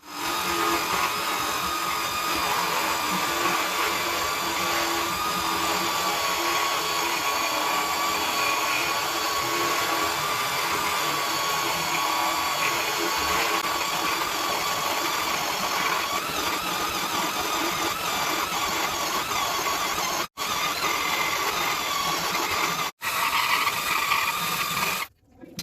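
Electric motor of an improvised lathe running steadily at constant speed with a steady whine. It cuts out for an instant twice late on and again near the end.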